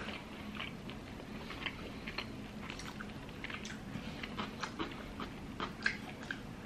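A person chewing a mouthful of steak salad, with short, irregular wet clicks and crunches of the mouth.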